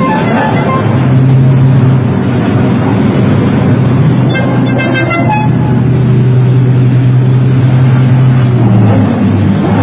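Loud car engine and exhaust holding a steady drone for several seconds, with a short burst of higher tones about halfway through.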